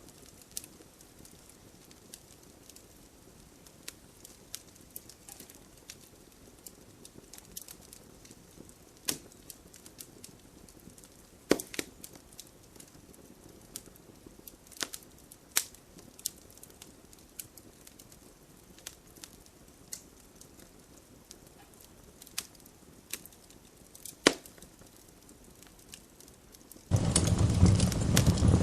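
Wood fire in a fireplace crackling: a faint hiss with scattered sharp pops and snaps, a few of them louder. Near the end a loud, steady rushing noise cuts in suddenly.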